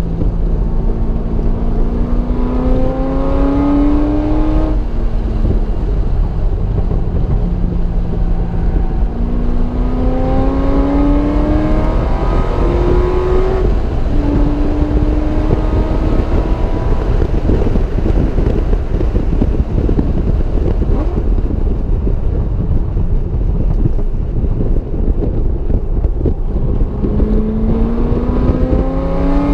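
Car engine accelerating hard on track, its pitch climbing and then dropping back at each upshift, over heavy wind and road noise. There is a pull with a shift about five seconds in and a longer pull with two quick upshifts in the middle. A long stretch of mostly wind and tyre noise follows, and the engine climbs again near the end.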